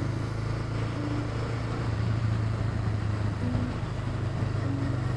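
Motorcycle riding at a steady speed: the engine runs with a steady low hum under a constant rush of wind and road noise.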